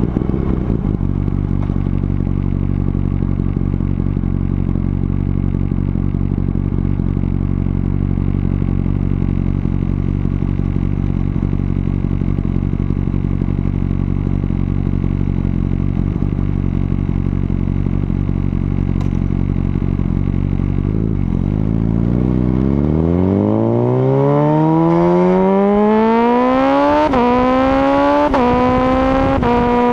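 Honda CBR1000RR Fireblade inline-four running at steady low revs, then accelerating hard about two-thirds of the way through, its note climbing steeply. Near the end come two quick upshifts through the quickshifter, the pitch dropping sharply each time before climbing again.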